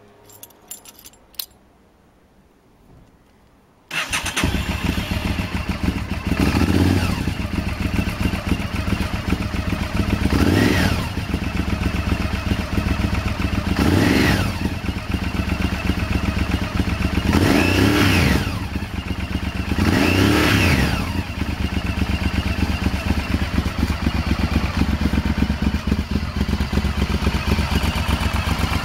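A few small clicks, then a Honda VTR1000F's 90-degree V-twin starts suddenly about four seconds in, breathing through a Yamamoto Racing aftermarket exhaust. It idles and is blipped five times, the revs rising and falling each time, then settles back to a steady idle.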